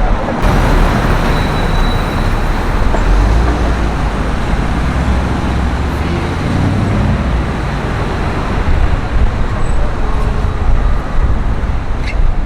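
Road traffic: motor vehicles running past in a steady rumble of engines and tyres.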